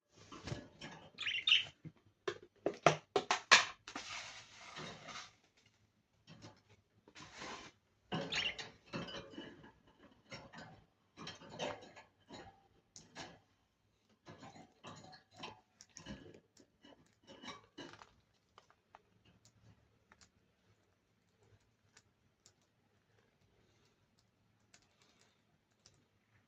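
Budgerigars chirping and pecking at their food, with many quick clicks and taps. The pecking is busiest for the first two-thirds and thins to scattered single ticks near the end.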